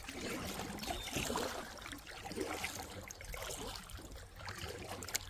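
Kayak paddle strokes: water trickling and splashing off the paddle blades as the kayak moves along the river.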